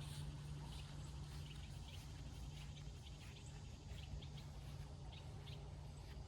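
Birds chirping faintly, short calls scattered throughout, over a steady low hum.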